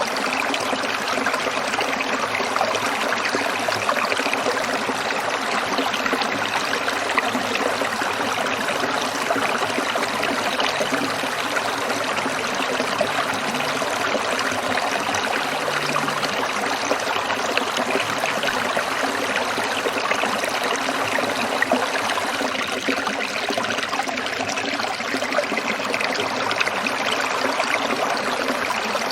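Stream water trickling and splashing over stones, a steady even rush.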